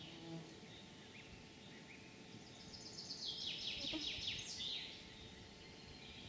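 A songbird sings one phrase about two and a half seconds in: a quick run of repeated notes stepping downward, ending in a brief higher flourish. Fainter bird calls come and go around it.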